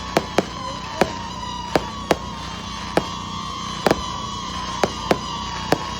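Fireworks exploding in a show: about a dozen sharp bangs at irregular intervals, with a faint steady tone that slowly falls in pitch behind them.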